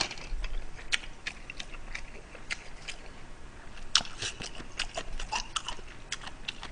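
Close-miked eating: chewing a mouthful of chicken karaage and rice, heard as a string of short wet mouth clicks and smacks, with one louder click about four seconds in.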